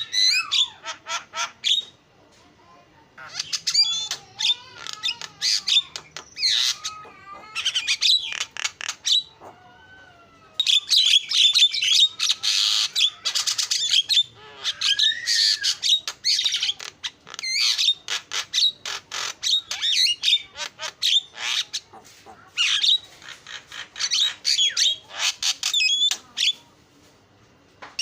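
Javan myna singing a long, varied song of harsh squawks, rapid chatter and gliding whistles, broken by a few short pauses.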